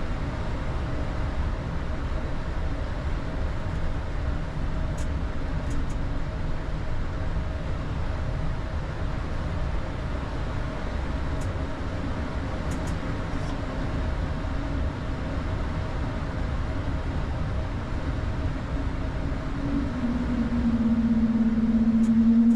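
Steady cockpit rumble of an Airbus A220-300 on the ground just before takeoff, from its Pratt & Whitney PW1500G geared turbofans and the airframe, with a few faint clicks. Near the end a hum sets in and rises in pitch as the noise grows louder.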